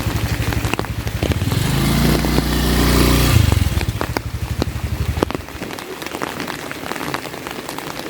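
A motorcycle passes close by, its engine growing louder to a peak about three seconds in, then fading away by about five seconds. Steady rain falls throughout, with scattered drop clicks.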